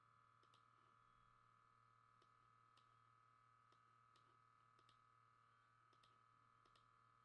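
Near silence: a faint steady hum with faint, irregular ticks.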